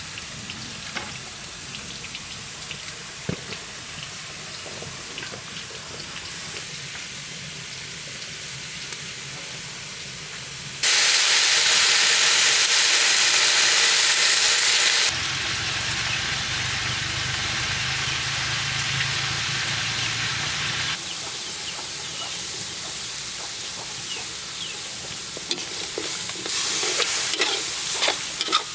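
Food frying and sizzling in a pan, with small clicks and scrapes of stirring. The sizzle jumps much louder for about four seconds near the middle, then drops back.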